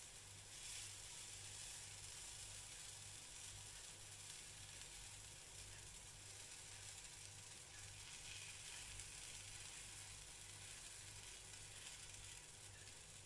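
Sweet potato pancake batter frying in a pan on a gas burner, a faint steady sizzle. A low hum pulses evenly underneath.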